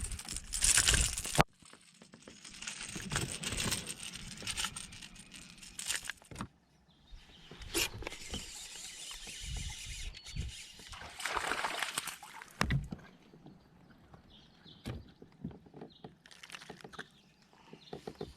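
Water splashing and handling knocks around a fishing kayak, in short clips that cut off abruptly.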